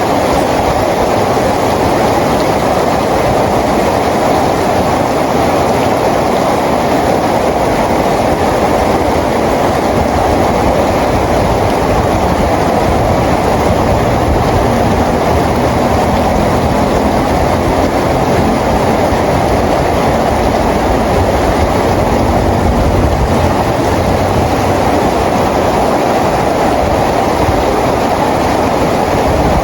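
Steady rain falling, a loud, even rush of noise with no breaks. A deeper low rumble swells through the middle stretch.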